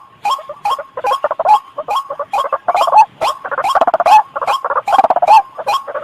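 White-breasted waterhen (ruak-ruak) calling: a short, harsh note repeated two to three times a second. From about a second in it thickens into a dense, overlapping chatter.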